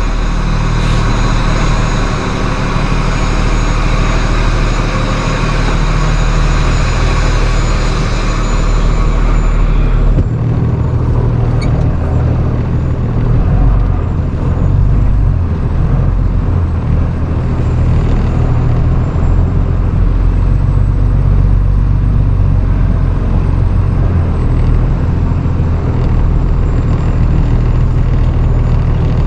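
Straight truck's engine idling steadily, a low, even hum. A hiss over it stops about ten seconds in.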